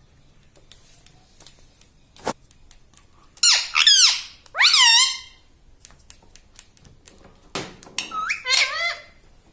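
Indian ringneck parrot giving shrill, bending squawks: two calls about three and a half seconds in, and a shorter run near the end. A single sharp click comes a little after two seconds.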